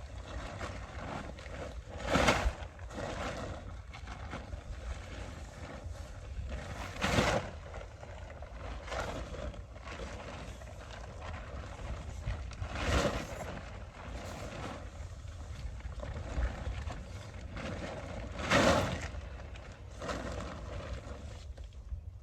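Dome tent being pitched: tent fabric rustling and being handled, with louder swells of rustling about every five seconds, over a steady wind rumble on the microphone.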